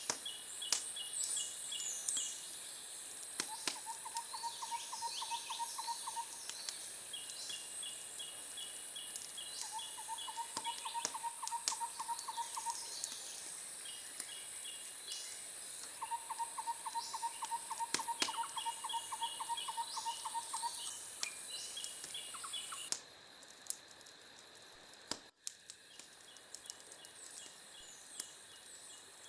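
A chorus of calling animals. Evenly pulsed trills repeat several times, each lasting a few seconds, along with shorter higher pulse series and chirps. A steady high buzz runs beneath them and stops abruptly about 23 seconds in, and scattered sharp clicks come throughout.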